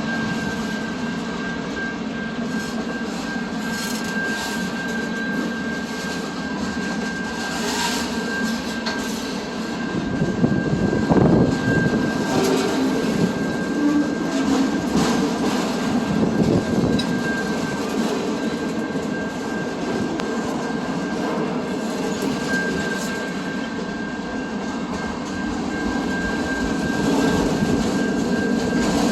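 A train rolling past on the rails, a steady running rumble that swells slightly midway, with a thin high whine held throughout.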